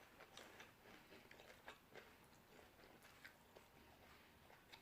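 Faint chewing of a mouthful of raw vegetables, with scattered short soft mouth clicks.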